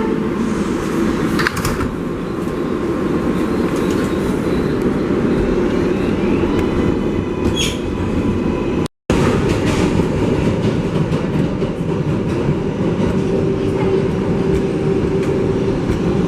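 An R188 subway car of the 7 train running between stations, heard from inside the car: a steady loud rumble of wheels and motors with occasional sharp clicks from the track. The sound drops out completely for a moment about nine seconds in.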